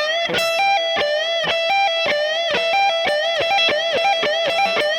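Electric guitar playing a fast repeating E minor pentatonic lick: a whole-tone bend on the B string rising up to E, then a hammer-on and pull-off between the 12th and 15th frets of the high E string, looping over and over at about one cycle every half second or so.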